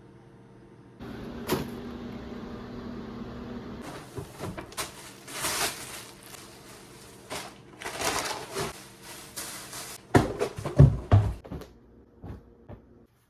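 Indoor clattering and rustling, with a run of loud low thumps about ten seconds in.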